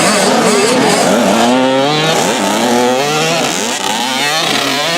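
Several 65cc two-stroke youth motocross bikes revving hard, their pitches rising and falling over one another as the riders work the throttle through the arenacross track.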